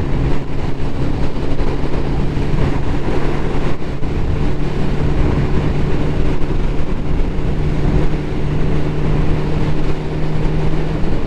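Ducati motorcycle engine pulling at a steady cruise under way, its pitch holding level, over a loud, constant rush of wind noise.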